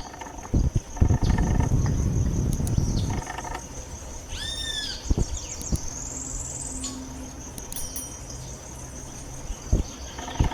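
Forest ambience: a steady high-pitched insect drone, with a few bird calls over it, including an arched call about four seconds in and a rising buzzy trill shortly after.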